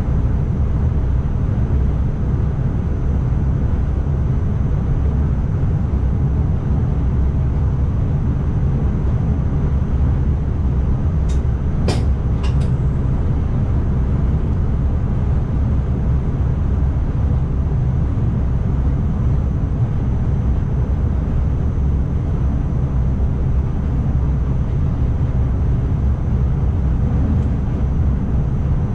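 Steady low rumble of an ICMm (Koploper) electric intercity train running along the track, heard from the driver's cab, with a faint high steady whine. A few sharp clicks come close together a little before the middle.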